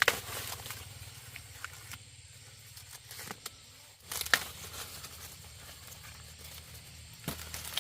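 Rustling and tearing of dry plant material, with sharp snaps near the start, about four seconds in, and at the end.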